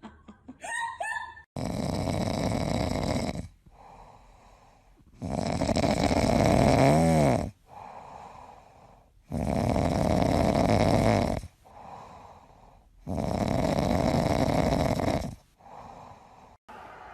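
Loud, rhythmic snoring: four long snores on the in-breath, roughly four seconds apart, each followed by a quieter breath out.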